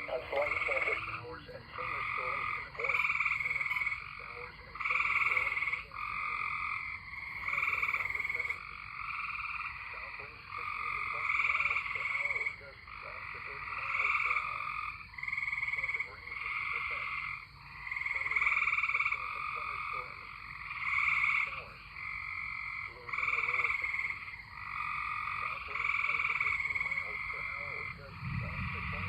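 A chorus of tree frogs calling, short trilled calls repeating about once a second and overlapping.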